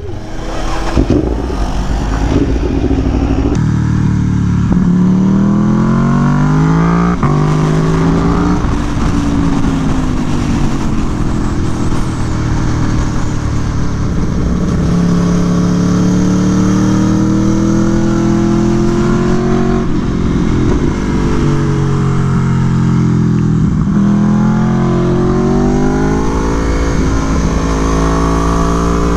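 Aprilia Tuono V4 1100 Factory's V4 engine, breathing through an SC Project CR-T exhaust, being ridden hard on a racetrack. The pitch climbs under acceleration and drops as the bike slows for corners, several times over.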